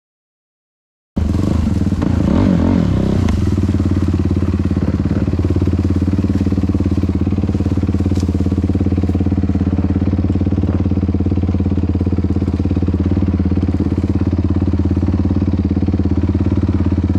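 Yamaha YFZ450R's single-cylinder four-stroke engine running steadily at idle through its Rossier R5 aftermarket exhaust. The sound cuts in abruptly about a second in.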